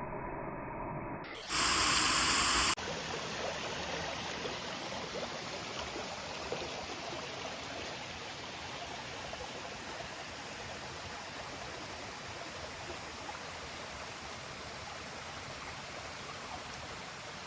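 A waterfall's steady rush of falling water. It begins about three seconds in, after a muffled steady hum and a loud hiss lasting about a second.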